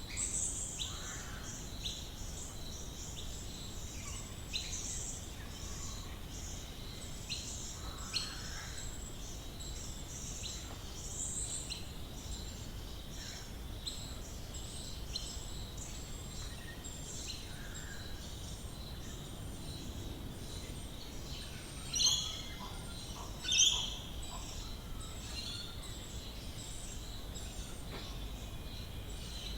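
Birds in the Australian bush, a dense chorus of short high chirps repeating over and over, with two louder calls near the end, over a low steady rumble of outdoor background noise.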